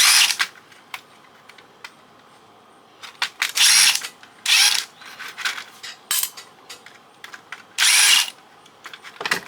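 Cordless drill or power screwdriver run in short bursts, about four of them, backing out the screws that hold a circuit board. Small clicks and knocks of parts are heard between the bursts.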